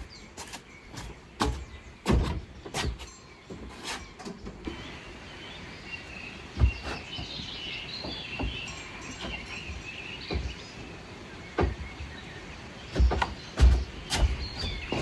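Irregular knocks and clatter, several close together near the end, with small birds chirping for several seconds in the middle.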